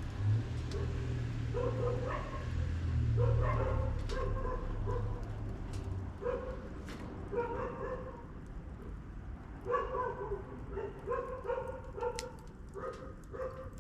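A dog barking and yipping repeatedly, about ten short barks in irregular clusters, with sharp crackles from the wood fire scattered through. A low rumble underneath fades out about six seconds in.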